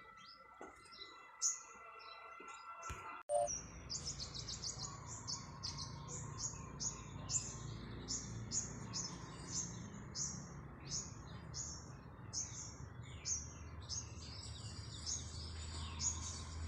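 Small birds chirping in quick, repeated short high calls, about three a second. Before this, about three seconds in, there is an abrupt cut from a steady high whine. A low hum comes in near the end.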